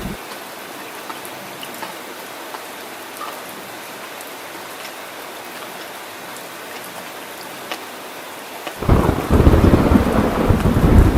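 Steady heavy rain, a constant hiss with scattered drop patter. About nine seconds in, a loud, deep thunder rumble begins suddenly and runs on.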